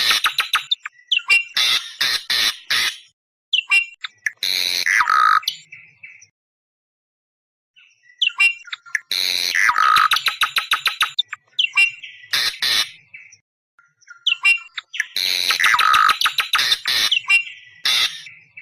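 Awar-awar bird calling loudly in repeated bouts of harsh, screeching notes, each bout a rapid stutter of short calls. The calls break off for about two seconds near the middle. This is a lure call used to draw in wild birds of the same kind.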